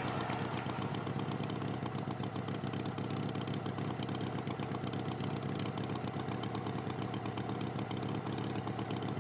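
A tractor engine idling steadily, with a rapid, even pulse.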